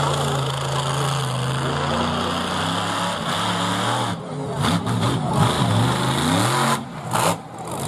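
Monster truck engine revving, its pitch climbing and falling several times as the throttle is opened and eased off.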